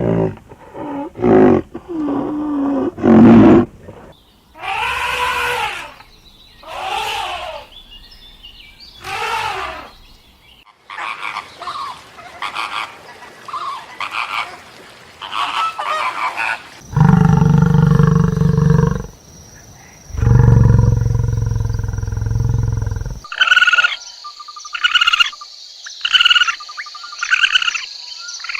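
A run of farm animal calls, one after another. Short, varied cries come first. Two long, deep calls follow in the middle, and a string of quick, higher calls ends it.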